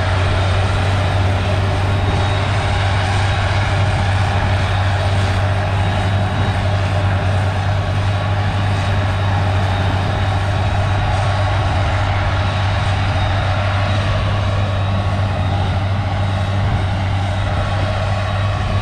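Heavy farm machinery engine running steadily under load, a continuous low drone.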